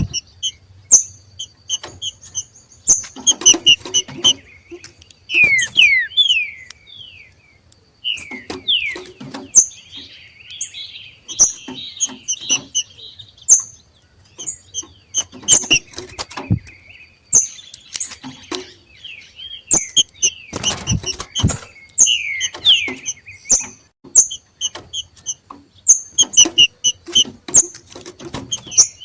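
Green-winged saltators (trinca-ferro) giving their macheado calls: many short sharp chirps, downward-slurred whistled notes and a raspy chattering stretch about ten seconds in, repeated throughout, with scattered sharp clicks among them.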